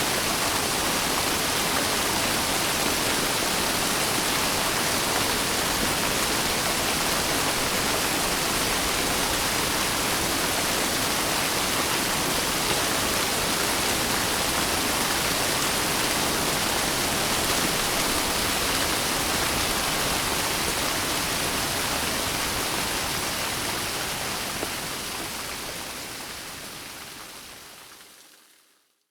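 Steady rain, an even dense hiss, fading out over the last five seconds to silence.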